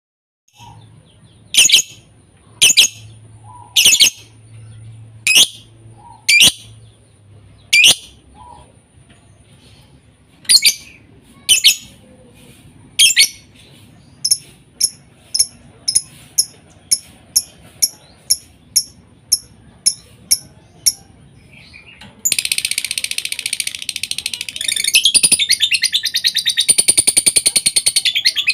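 Lovebird calls: a string of loud, sharp shrieks about one a second, then a quicker run of short high chirps, and from about three-quarters of the way through a continuous high-pitched chattering trill.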